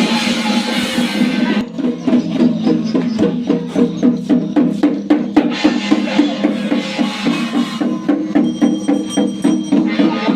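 Percussion-led ritual music: a rapid run of sharp wood-block or drum strokes, about four to five a second, over a steady low sustained tone. A ringing metallic tone joins near the end.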